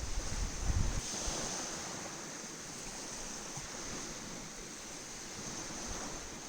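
Wind buffeting the microphone for about a second, then a steady wash of surf and wind on the shore.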